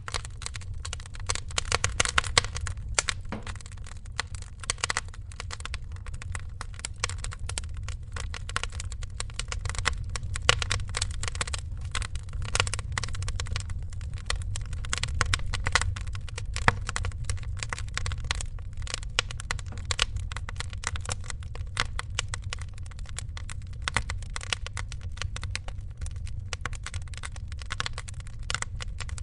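Wood fire crackling with dense, irregular snaps and occasional louder pops over a steady low rumble.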